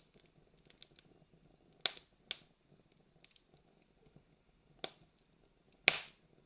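Wood campfire crackling: faint small crackles with four sharp pops from the burning wood, about two seconds in, just after, near five seconds and near six seconds, the last the loudest.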